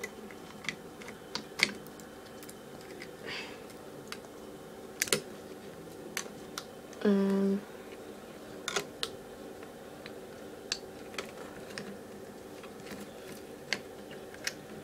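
Light plastic clicks and taps of tape reels being fitted onto the spindles of a Grundig TK 6 reel-to-reel tape recorder and tape being threaded, scattered irregularly over the steady hum of the machine's running motor and fan.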